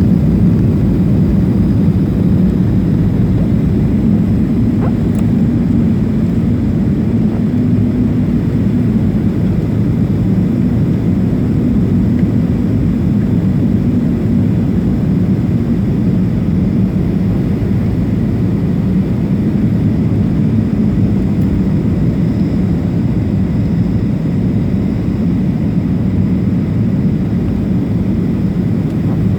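Steady low drone inside the cabin of a Boeing 737-500 in flight on approach: jet engines and rushing airflow, with no clear change in pitch or level.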